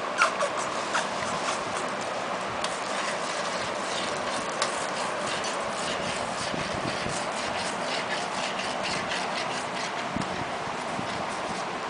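Five-week-old Lhasa Apso puppies scuffling as they play: scattered light clicks and rubbing, a few sharper ones about the first second, over a steady background hiss.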